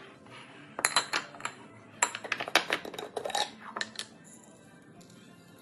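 Kitchenware clinking and clattering in a few quick clusters of knocks, some with a short metallic ring, stopping about four seconds in, over background music.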